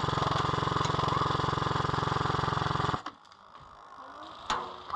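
Airsoft light machine gun firing a long full-auto burst: a rapid, even rattle that cuts off abruptly about three seconds in. A single sharp click follows near the end.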